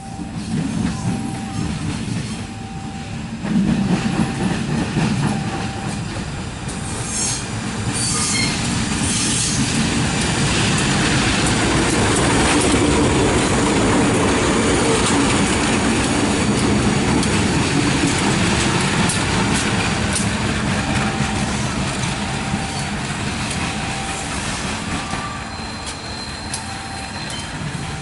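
Train passing close by, its wheels clattering over the rail joints, building from a few seconds in, loudest through the middle and easing near the end. A high on-off beeping tone repeats before and after the loudest part.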